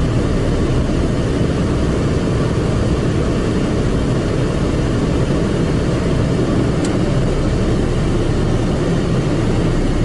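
Automatic car wash machine running, heard from inside the car as a steady, even rushing noise, strongest in the low end.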